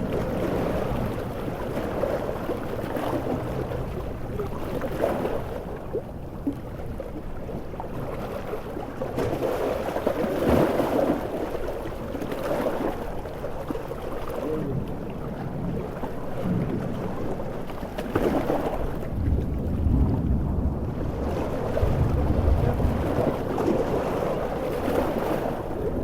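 Large ocean waves surging and breaking, swelling and easing every few seconds with wind, and a deep low rumble in the last third.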